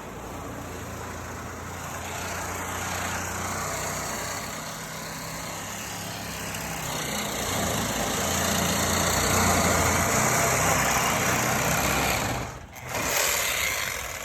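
Engine of heavy machinery running steadily, with a noisy, mechanical layer over it that grows louder about halfway through. It drops out for a moment near the end, then comes back.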